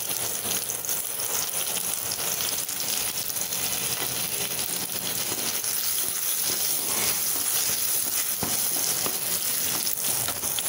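Whole shallots, garlic cloves and dried red chillies frying in hot sesame oil in a kadai: a steady sizzle, with a few light scrapes from a wooden spatula as they are stirred.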